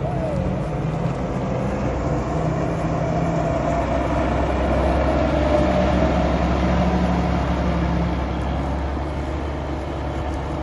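Combine harvester running steadily under load: a loud, even machine drone with a deep low hum, swelling slightly about halfway through.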